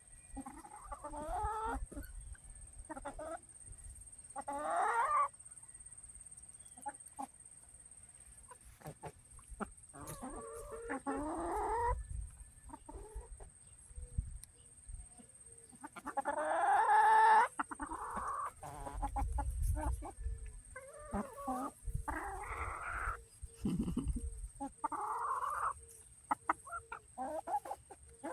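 Chickens clucking and squawking in repeated bursts while they peck at peaches, over a low rumble.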